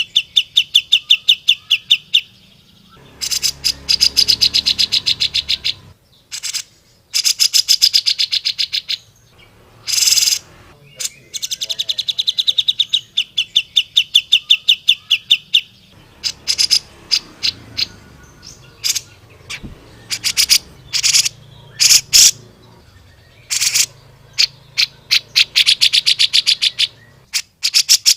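Grey-cheeked bulbul (cucak jenggot) singing in a rapid chattering style: bursts of fast, evenly repeated high notes a few seconds long, broken by short single sharp calls.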